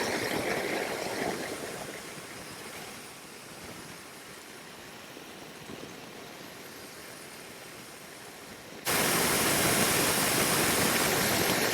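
Wind and road rush on a moving motorcycle's microphone, a steady noisy hiss. It fades to a lower level over the first few seconds, then jumps back up abruptly near the end.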